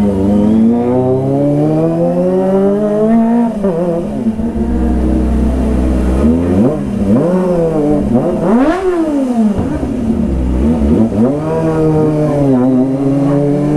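Kawasaki ZX-25R's inline-four engine revving. Its pitch climbs steadily for the first few seconds, then rises and falls in repeated throttle blips, with one sharp high rev about nine seconds in.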